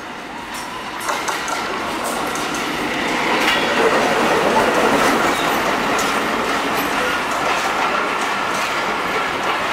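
Diesel-hauled passenger train passing close by at speed: the noise builds to its loudest about four seconds in as the locomotive goes past, then the carriages follow with wheels clicking and rattling over the rail joints.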